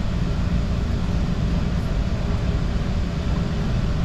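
Train running, a steady low rumble with an even hiss above it.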